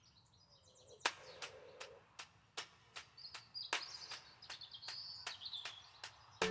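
Small birds chirping and twittering outdoors, in a short run near the start and a longer one in the middle. Sharp clicks recur about once or twice a second throughout.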